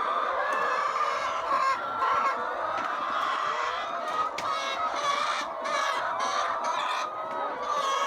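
A flock of laying hens clucking and calling together, many voices overlapping steadily.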